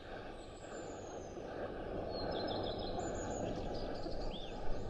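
Wind buffeting the microphone, a rough rumbling noise that slowly grows louder. Over it, small birds chirp in quick repeated high notes that slide downward.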